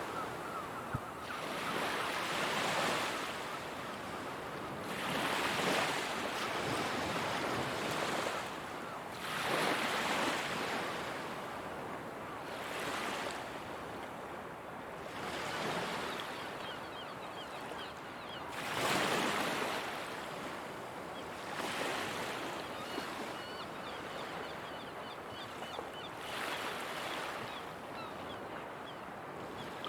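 Ocean waves breaking and washing up a shore, the surf swelling and ebbing every three to four seconds.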